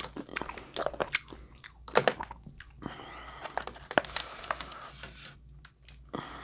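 Crab leg shells cracking and crunching close to the microphone as they are broken open to get at the meat, with sharp cracks, loudest about two and four seconds in.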